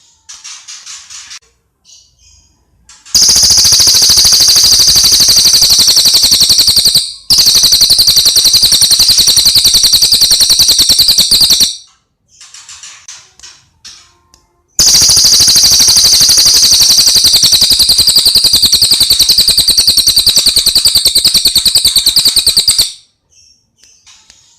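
Recorded songbird song used as a masteran training track for caged songbirds: three long, very fast, loud trills that run for several seconds each, with short, softer chirping phrases between them.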